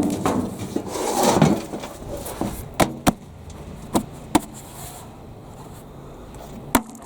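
Rustling and tearing as a Casablanca potato plant is pulled up out of the soil, in two surges in the first second and a half. This is followed by five sharp knocks spread over the next few seconds.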